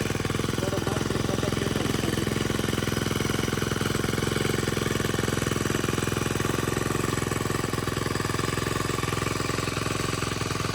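Small engine of a grass-cutting machine running at a steady speed.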